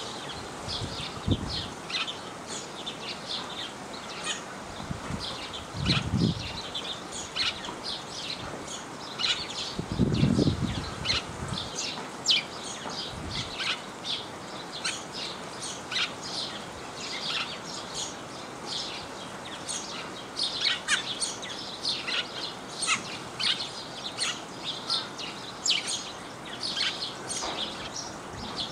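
Flock of Himalayan black bulbuls calling: many short, high, squeaky chirps overlapping throughout. A few low muffled thumps come in among them, the loudest about ten seconds in.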